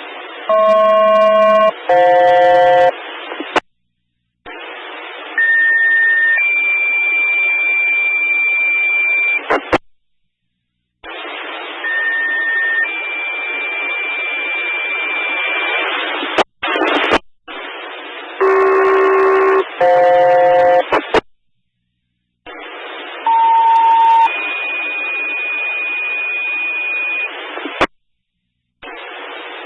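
Fire-dispatch pager tones heard over a scanner. Separate radio transmissions carry a hiss, and on three of them a short tone steps up to a longer, higher tone held about three seconds, the two-tone sequential paging that sets off firefighters' pagers. Brief chord-like bursts of several tones sound near the start and again midway.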